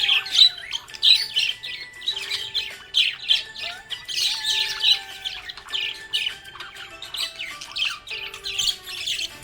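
Budgerigars chirping and warbling: a continuous stream of rapid, high-pitched chirps, mixed with some longer whistled notes.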